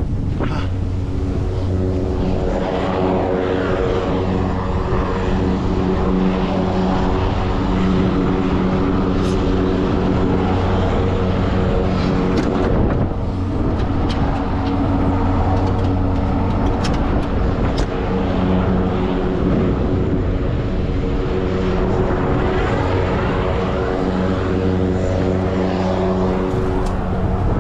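Heavy truck diesel engine running steadily, a deep even drone.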